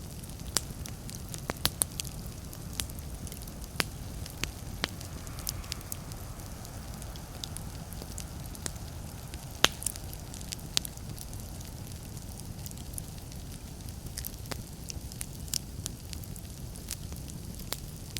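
Fireplace fire crackling: irregular sharp pops and snaps over a low, steady rumble, with the loudest pop about ten seconds in.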